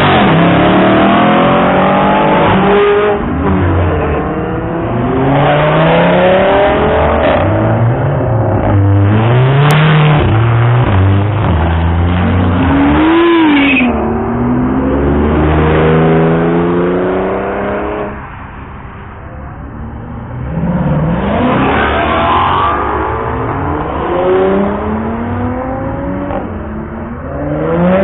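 Sports car engines revving and accelerating hard, their pitch climbing and falling again and again in quick runs, with a quieter lull about two-thirds of the way through.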